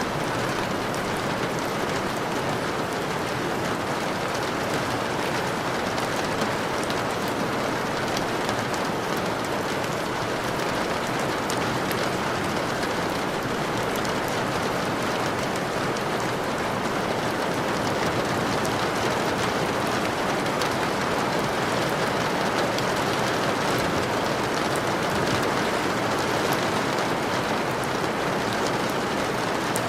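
Steady heavy rain falling on a surface, a dense even hiss of drops with fine ticks throughout.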